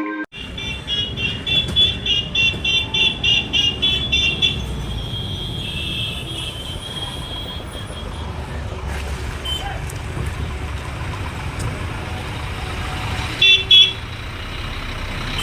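Steady rumble of bus engines and traffic, with vehicle horns tooting: a quick run of short high toots in the first four seconds, one held note after it, and two loud toots near the end.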